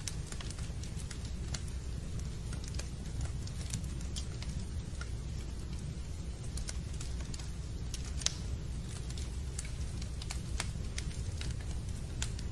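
Fireplace fire crackling: irregular sharp pops and snaps over a steady low rumble, with one louder pop about eight seconds in.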